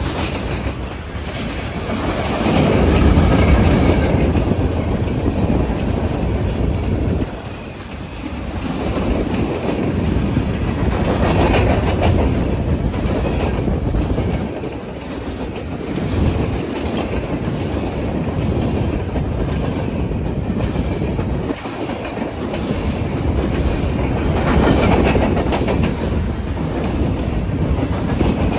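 BNSF freight train rolling past, its cars' steel wheels rumbling and clicking on the rails in a continuous run that swells and eases every several seconds.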